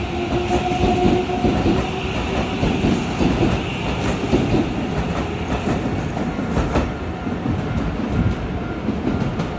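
Shin-Keisei 8800-series electric train pulling out and running past, wheels clattering over the rail joints under a steady rumble, with a faint steady whine from the traction equipment.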